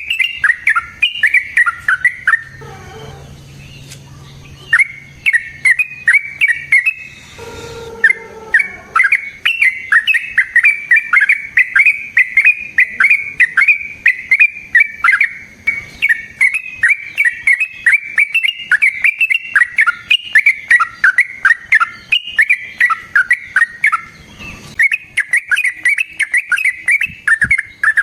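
Yellow-vented bulbul (trucukan) singing a long, rapid run of bubbly, chattering notes. It pauses briefly about three seconds in and resumes near five seconds. A short rough noise comes just before eight seconds.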